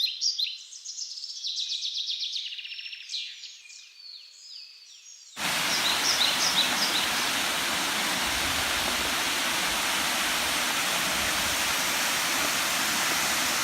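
Birdsong of fast, repeated trilled notes that fades away, then an abrupt switch about five seconds in to the loud, steady rushing of a waterfall, with a few bird chirps over it just after the switch.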